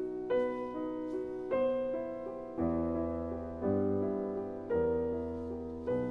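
Gentle background piano music, a new chord struck about every second, with bass notes joining about halfway through.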